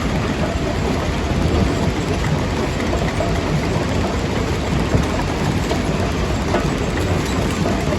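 Jaw crusher running and breaking rock: a steady heavy rumble with a few sharp knocks and cracks of stone scattered through it.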